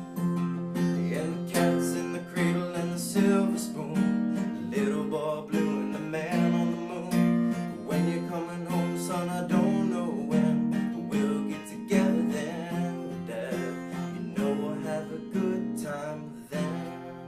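Acoustic guitar strumming chords in a steady rhythm, an instrumental outro with no singing.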